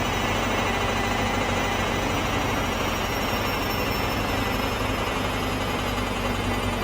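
Hoover Dynamic washing machine spinning with an unbalanced load, a loud, dense, steady mechanical rumble with a steady low hum, run through the 'G-Major' effect of layered, pitch-shifted copies. High whines in it slowly fall in pitch from about halfway through.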